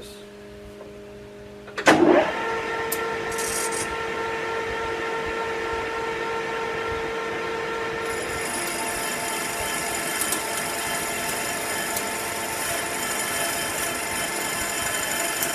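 Metal lathe starting with a sharp clunk about two seconds in, then running steadily with a whine. From about eight seconds in a higher ringing joins it as the single-point tool turns a 0.050-inch pass on the diameter of a cold-rolled steel part.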